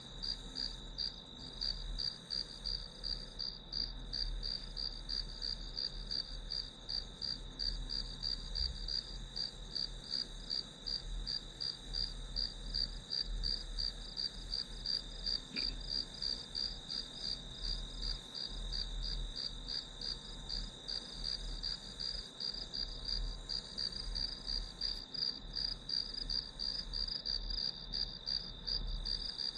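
Crickets chirping steadily: a high-pitched, evenly repeating chirp with no break.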